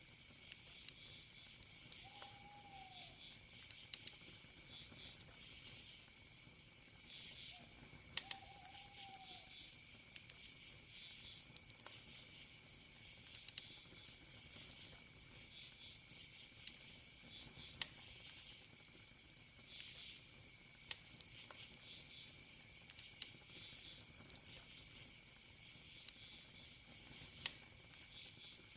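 Campfire wood crackling, with sharp irregular pops, over steady chirping crickets. Two short whistled calls come about two and eight seconds in.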